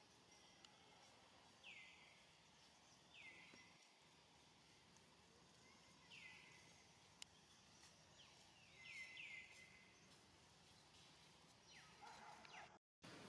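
Faint outdoor ambience with a bird giving short chirps that drop in pitch, about seven in all, three in quick succession around the middle.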